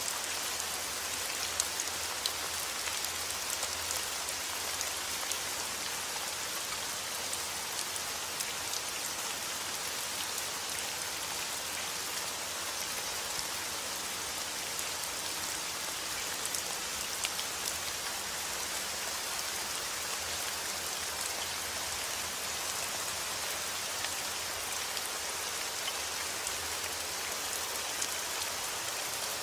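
Steady heavy rain outdoors: an even hiss of rainfall with many small drop ticks scattered through it.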